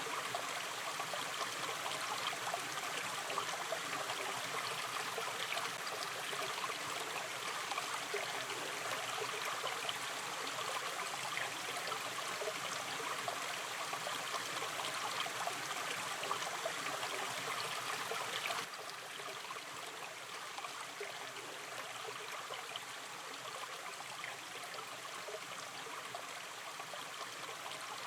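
A gently running river stream: steady flowing water with fine trickling and gurgling. The level drops suddenly about two thirds of the way through, as at a splice in the recording.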